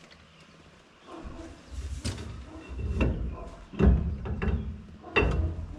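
Steel rear axle shaft being slid back into its axle housing: metal scraping and a low rumble, with several heavy clunks as it goes in.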